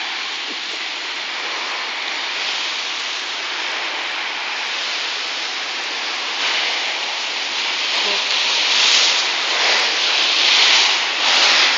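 Steady hiss of street traffic on wet asphalt, with several louder tyre swishes of cars passing in the second half.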